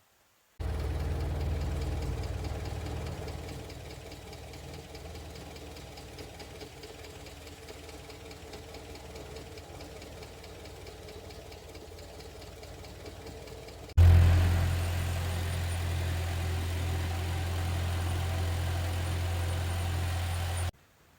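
Mitsubishi Jeep engine idling, heard in two joined clips. The first is louder for its first few seconds, then settles quieter; the second starts abruptly about two-thirds through, louder with a steady low hum, and cuts off shortly before the end.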